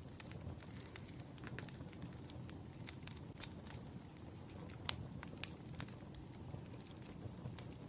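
Wood fire crackling: irregular sharp pops and snaps over a low, steady rumble of the burning logs, with one louder pop about five seconds in.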